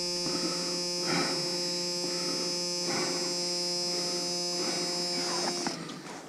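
Pickup truck's starter motor cranking the engine in bitter cold, a steady electric whine held for several seconds and then released near the end without the engine catching.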